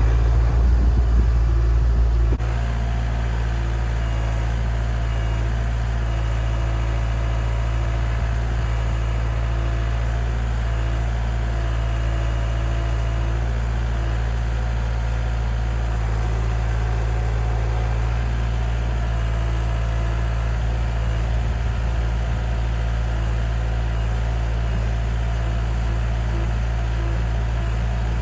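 Kubota compact tractor's diesel engine running steadily, a little louder for the first couple of seconds and then settling to an even, low hum.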